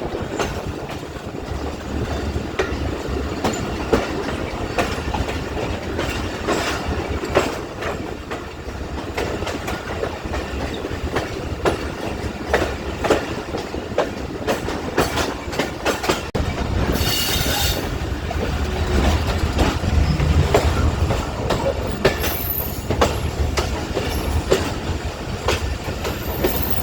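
Passenger train running slowly into a station, rumbling with irregular clacks and knocks of the wheels over rail joints and points, and a brief high squeal about two-thirds of the way in.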